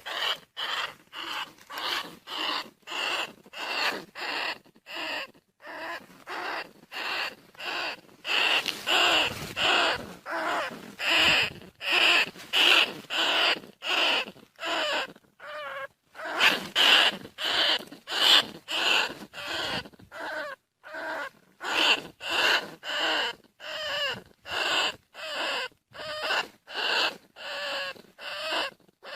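Bandicoot rat calls: short squeaky cries repeated evenly about twice a second, played as a lure call to draw rats in.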